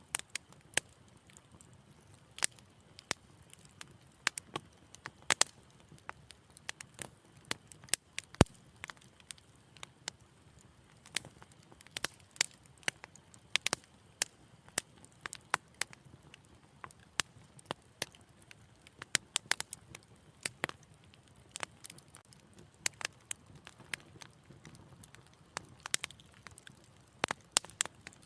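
Wood fire crackling in a fireplace: irregular sharp pops and snaps, several a second, over a soft low rush of flame, with one louder pop about eight seconds in.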